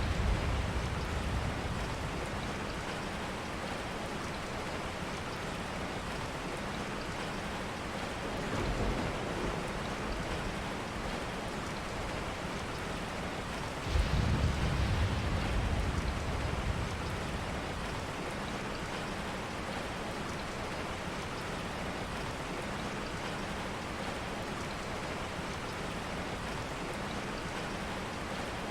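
Steady rain, an even hiss. A soft low rumble swells about nine seconds in, and a stronger one starts suddenly about fourteen seconds in and fades over a few seconds.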